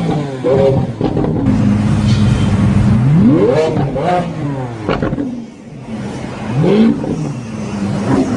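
A sports car engine idling, then revved up hard twice, the pitch climbing steeply about three seconds in and again near seven seconds. A sharp click comes between the two revs.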